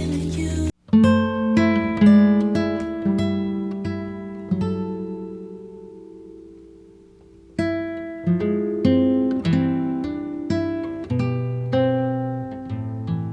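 Background music of plucked acoustic guitar, single notes and chords ringing out; it dies away to near silence about six seconds in, then picks up again.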